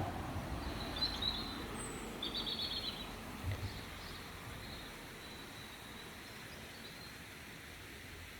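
Small birds calling: a short high chirp about a second in, then a quick run of high repeated notes, over a steady low outdoor background noise.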